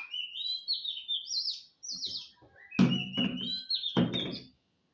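A small bird chirping repeatedly in quick, falling notes. A few sharp knocks land among the chirps about three and four seconds in, and everything cuts off just before the end.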